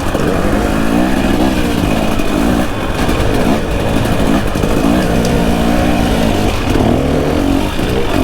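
Dirt bike engine revving up and down while riding trail, its pitch rising and falling again and again with the throttle and gear changes.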